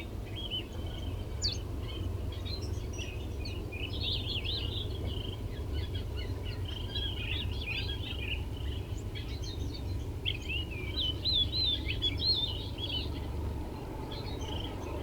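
Small songbirds chirping and twittering in quick, overlapping runs of short gliding notes, over a steady low rumble of background noise.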